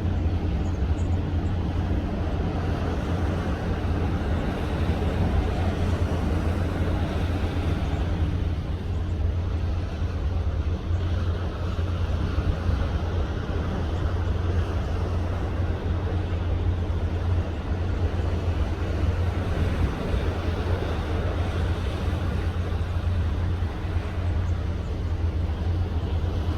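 Steady low drone of a ship's engines under way at sea, with a constant rushing hiss of wind and water over it.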